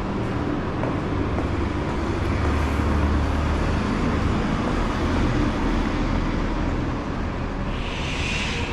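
Road traffic on a city street: a steady rumble of passing engines and tyres, a little louder in the middle, with a short hiss near the end.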